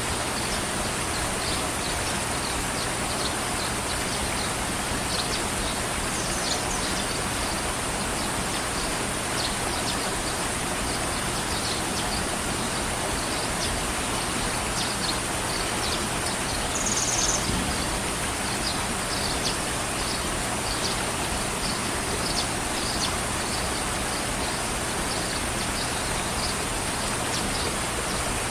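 Steady rain-like hiss with short bird chirps scattered throughout, one louder chirp a little past the middle.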